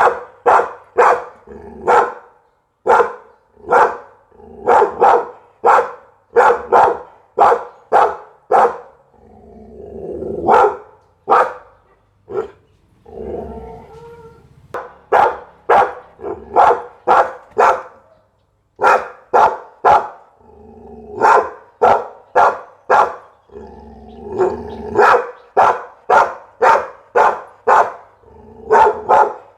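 Pit bull barking over and over, short sharp barks coming about one to two a second, with two longer drawn-out sounds in place of barks about ten and thirteen seconds in.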